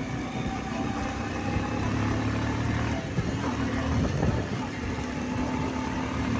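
Motorcycle engine running steadily while riding, under road and wind noise; the engine note wavers briefly about three to four seconds in.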